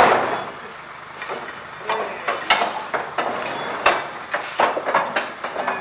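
A locomotive cab being heaved and shifted into place by hand: a loud bang at the start, then a string of irregular knocks and metallic clanks as it is moved.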